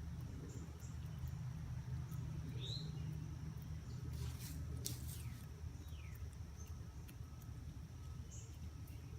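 Outdoor ambience with a steady high insect drone over a low rumble, a couple of short bird chirps, and a brief burst of scratching or rustling about four seconds in.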